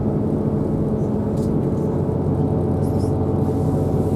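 Steady low hum of a diesel train's engine, heard from inside the passenger carriage.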